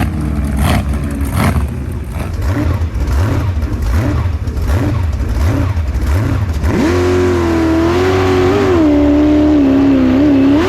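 V8 jet sprint boat engine: rough and pulsing at first, then from about two-thirds of the way in holding a steady high rev that wavers and rises near the end.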